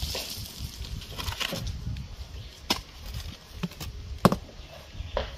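Wooden formwork boards being knocked and pried off concrete: irregular sharp knocks and cracks of wood, about half a dozen, with the loudest a little past four seconds in.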